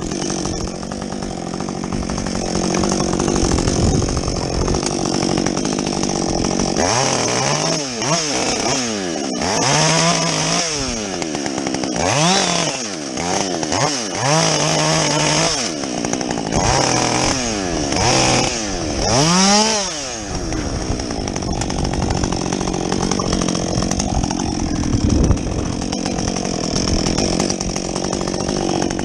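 Husqvarna 562XP two-stroke chainsaw with a modified muffler, running continuously. Its revs rise and fall over and over from about a quarter of the way in to about two-thirds, with steadier running before and after.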